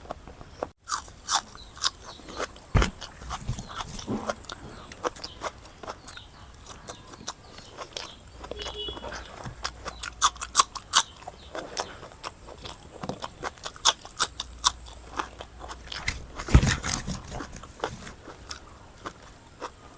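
A person chewing and biting food close to the microphone, with many sharp, irregular crunches.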